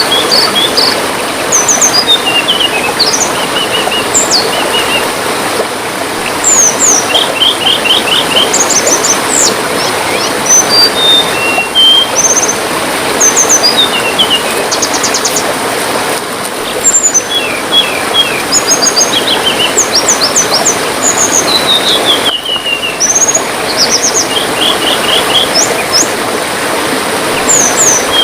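Small songbirds (tledekan) chirping and trilling in quick runs of short, high, sharp notes over a steady trickle of running water.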